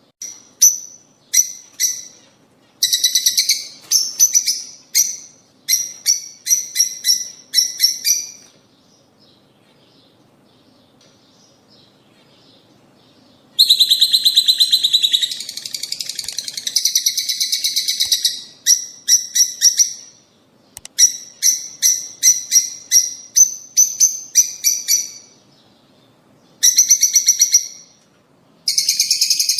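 Lovebirds calling: sharp, high-pitched chirps in quick runs, with stretches of dense, rapid chattering. There is a lull of a few seconds near the middle.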